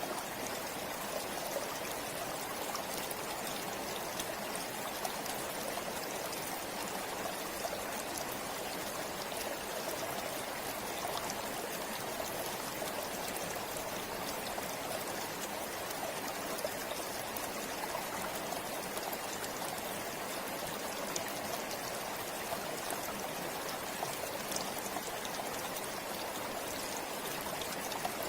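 River water flowing steadily over rocks, a continuous rushing with small splashes and trickles.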